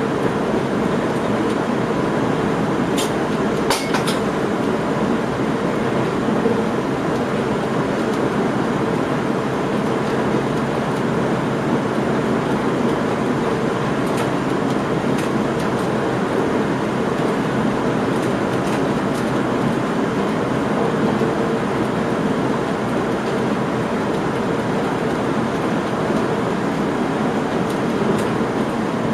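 Train running along the line, heard from inside the driver's cab: a steady running noise of wheels on rails, with a few brief high squeaks or clicks about three to four seconds in.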